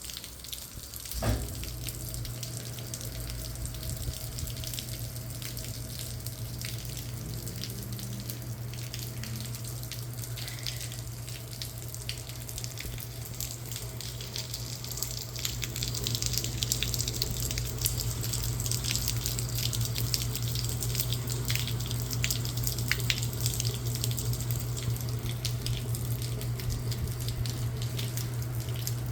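Rain falling with water running and dripping steadily, a dense patter of drops that gets heavier about halfway through, over a steady low hum. A short thump comes about a second in.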